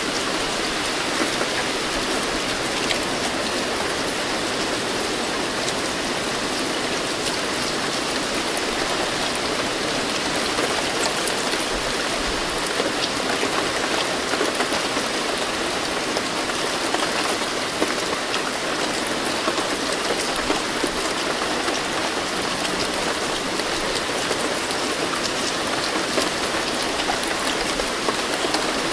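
Steady rain falling and pattering on a surface, with many small drop ticks through an even hiss.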